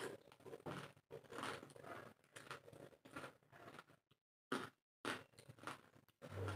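Crunching and chewing of fuchka (pani puri), the crisp hollow shells bitten and chewed in quick irregular bursts, with a short pause about four seconds in.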